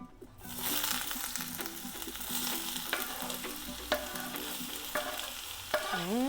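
Food hitting hot coconut oil in a pan and sizzling, starting suddenly about half a second in, while a utensil stirs it with scattered taps and scrapes against the pan.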